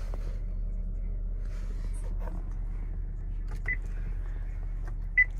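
2010 Acura MDX's 3.7-litre V6 idling in Park, a steady low hum heard from inside the cabin. Two short high beeps come about three and a half and five seconds in, the second louder.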